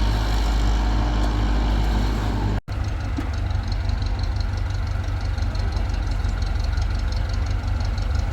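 Engine of the concrete-pouring machinery running steadily. It cuts out for an instant about two and a half seconds in and resumes with a choppier, rapidly pulsing running.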